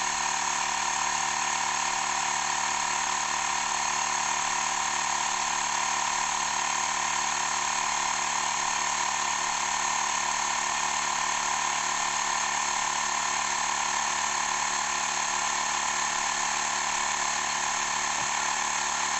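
Xiaomi Mi Portable Electric Air Compressor running steadily as it inflates a vehicle's front tyre from flat. The pressure is still climbing toward the preset 21 psi, where the pump shuts off automatically.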